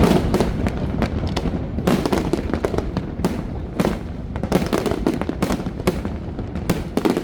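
Aerial fireworks going off in quick, irregular succession: many sharp bangs and crackles over a continuous low rumble.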